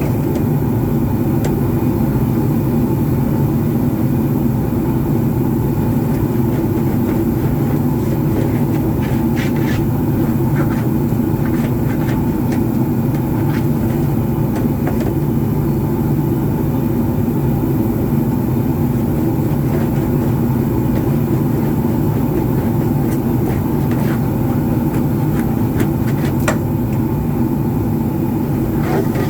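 Recycling baler's machinery running steadily with a constant low hum, with scattered light metallic clicks and taps over it.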